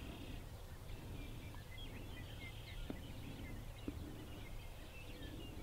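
Small birds chirping faintly in many short, high notes over a steady low rumble of open-air background noise.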